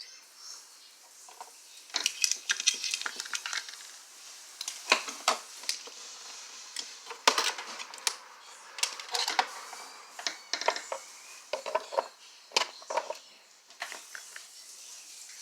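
Hard plastic pieces of a toy boat playset being handled and fitted together during assembly, with irregular clicks, knocks and small rattles.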